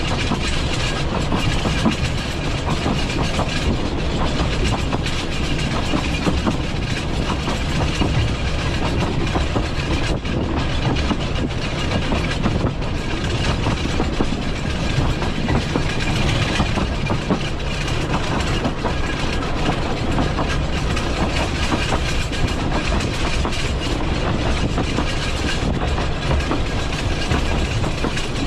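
Talyllyn Railway narrow-gauge (2 ft 3 in) train running steadily along the line, its wheels clicking over the rail joints.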